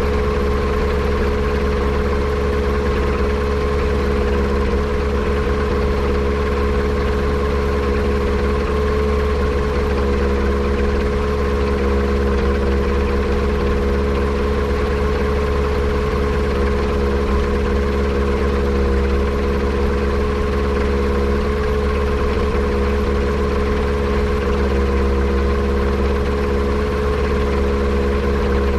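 Yamaha Apex engine on a Kitfox airplane running steadily at a low, even speed, without rising or falling, while a misfire that the owner suspects comes from a vacuum leak is being traced.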